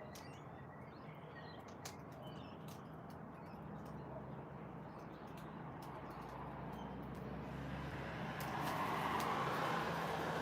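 Faint, short bird chirps in the first half, over a steady background noise that grows louder toward the end.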